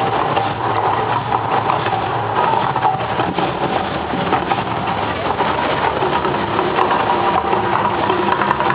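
Loud, steady rumbling din of an outdoor volcano show's effects, with crowd voices mixed in.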